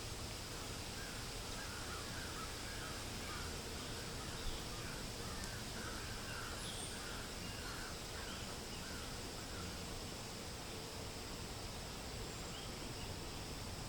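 Forest ambience: wind in the leaves making a steady hiss, while a bird calls a long run of short repeated notes from about a second in until near the middle, with a few high chirps from other birds scattered through.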